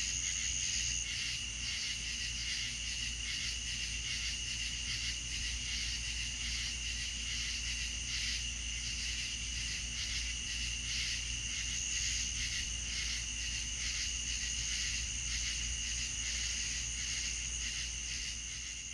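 Chorus of crickets: a steady, high chirring with a fast, even pulse, over a faint low rumble. It begins to fade out near the end.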